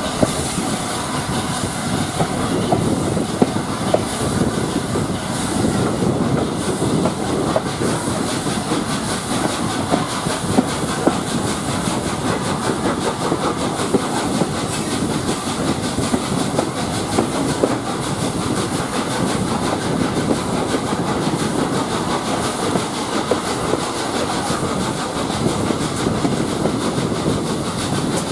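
Railway passenger carriage running along the line: a steady rumble of wheels on rail with frequent sharp clicks and knocks as the wheels pass over rail joints.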